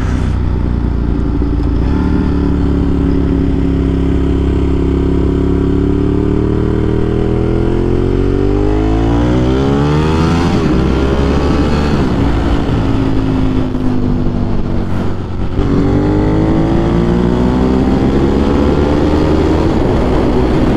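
2009 Ducati 1198's L-twin engine through a Termignoni exhaust, accelerating hard: the engine note climbs in pitch over several seconds, drops briefly at an upshift about fifteen seconds in, then climbs again.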